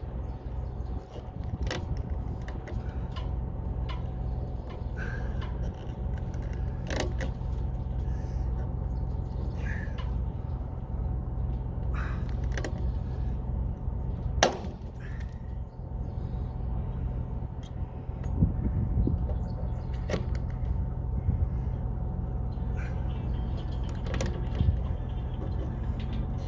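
A steady low mechanical hum, like an engine running at idle, with scattered sharp clicks and knocks from handwork on top; the loudest knock falls about halfway through.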